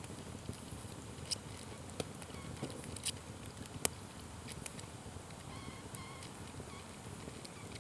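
Wood fire burning with a low steady rush and scattered sharp crackling pops, the sharpest a little under four seconds in.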